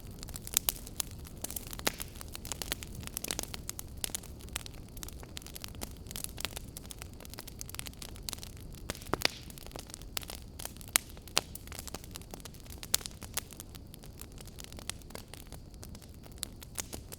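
Wood fire in a fireplace crackling: irregular sharp snaps and pops, several a second with a few louder ones scattered through, over a low steady rush of burning.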